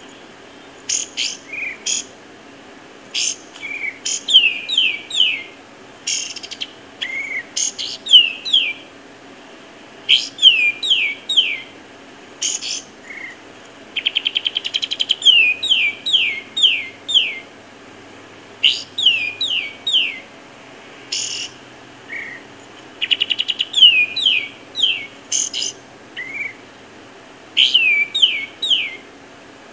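A bird calling over and over: short phrases of a few quick notes that slide down in pitch, coming every second or two, twice broken by a fast rattling trill.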